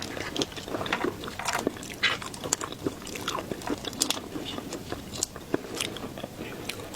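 Close-miked eating of seafood: irregular crunchy bites and wet chewing, with many sharp crackling clicks.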